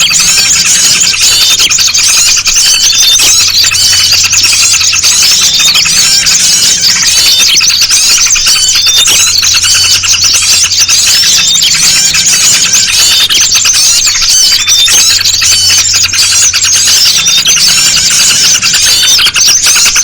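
Dense, unbroken chattering of many small songbirds, led by yellow-vented bulbuls (trucuk), played as a bird-trapping lure recording. A steady low hum runs underneath.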